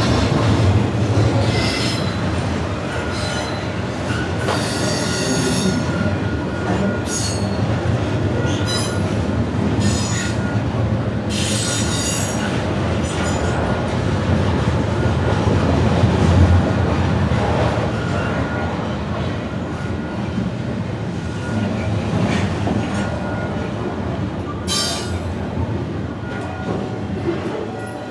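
Double-stack intermodal freight train rolling past close alongside, heard from inside a city bus: a steady low rumble of wheels on rail with repeated short, high-pitched wheel squeals, most of them in the first half and one more near the end.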